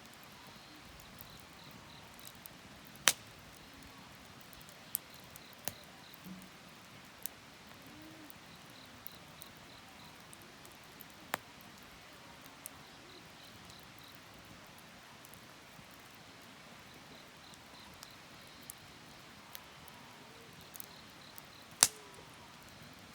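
Wood fire burning with occasional sharp pops and cracks, a few seconds apart; the loudest comes about three seconds in and another near the end.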